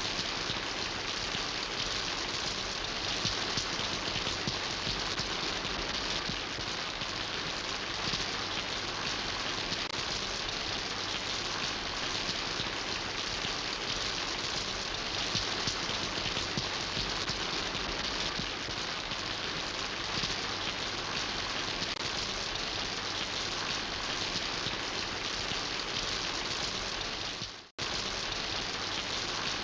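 Steady rain falling, a dense even hiss of many drops, which cuts out for an instant near the end before resuming.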